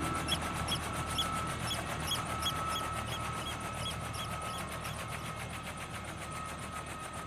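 High piping calls of Eurasian oystercatchers, repeated about twice a second and dying away about four and a half seconds in, over a steady hum with a thin high tone.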